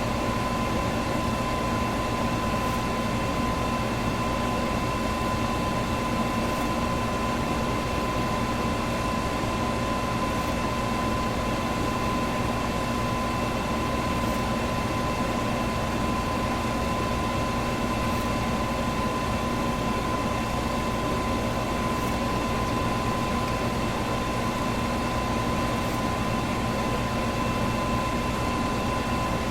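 Electric fan running steadily: a constant rush of air with a steady motor hum and a thin high whine over it.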